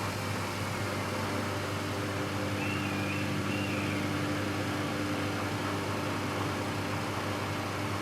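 Samsung EcoBubble front-load washing machine running through its cotton cycle: a steady motor hum with a held tone.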